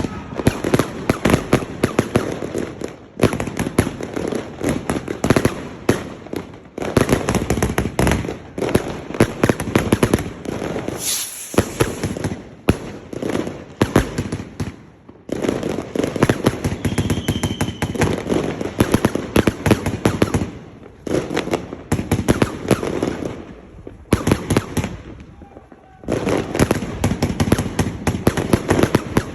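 Mandarin Fireworks 'Redemption' 100-shot, 1.2-inch fireworks cake firing rapid volleys of shots and bursts, with several short pauses between sequences, the longest about 25 seconds in.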